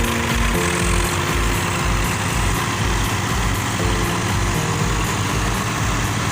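Tractor diesel engines running steadily under load, with a music track laid over them: a low beat about twice a second and held notes that change every few seconds.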